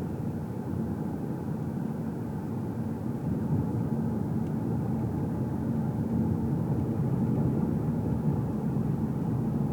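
Car cabin driving noise: a steady low rumble of engine and tyres on the road, with a faint steady engine hum and no music. It grows slightly louder about three seconds in.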